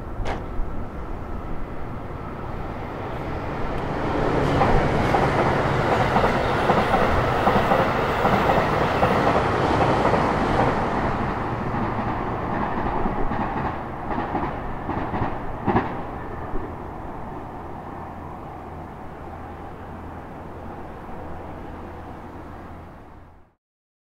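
Limited express Relay-Kamome electric train running along the line: its wheel and running noise builds to a peak, holds for several seconds and then dies away gradually, with a few sharp clicks from the wheels.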